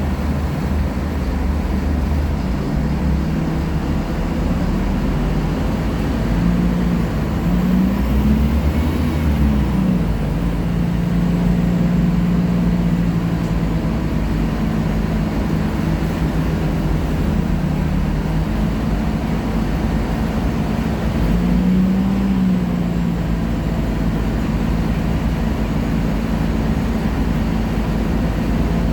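Diesel engine of a Scania K-310IA articulated city bus running steadily under way. Its pitch rises and drops back about eight seconds in, and again a little past twenty seconds.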